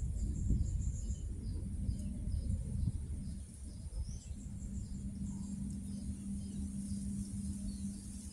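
Outdoor ambience: small birds chirping over and over, a steady high insect drone, and a low rumble that is loudest in the first few seconds. A steady low hum comes in about halfway through.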